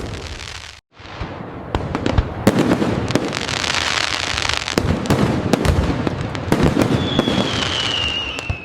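Fireworks display: repeated sharp bangs over dense, continuous crackling. Near the end comes a whistle that falls slightly in pitch. The sound cuts out completely for a moment about a second in.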